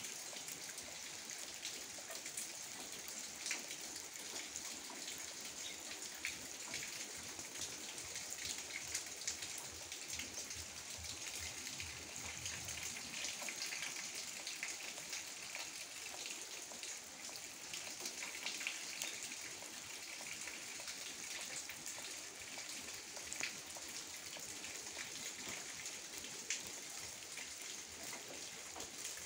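Steady light rain falling, an even hiss with many small drop ticks.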